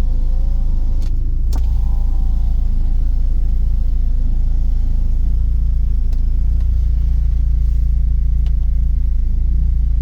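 Porsche 944's 2.5-litre fuel-injected four-cylinder engine and road noise heard from inside the cabin while driving: a steady low drone, with a few light clicks.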